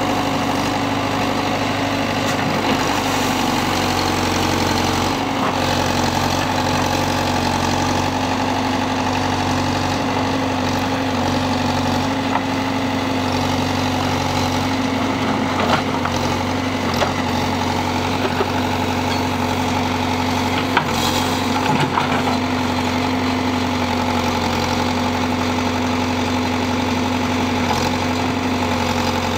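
Tractor engine of a farm backhoe running steadily at idle, with a few short clanks now and then.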